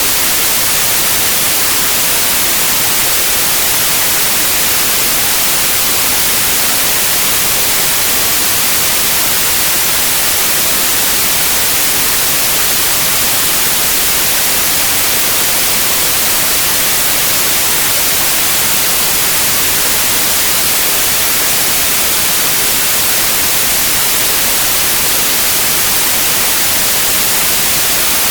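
Synthetic white noise: a steady, even hiss, bright in the high end, that never changes.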